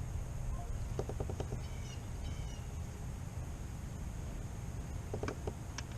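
Birds calling a few times, with short high chirps about two seconds in, over a steady low rumble of wind.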